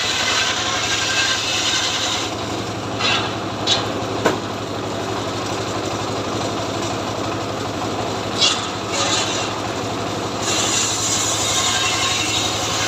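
Two-stroke chainsaw engine running steadily. Its hissy upper sound drops away about two seconds in and comes back about ten seconds in, with a few sharp cracks in between.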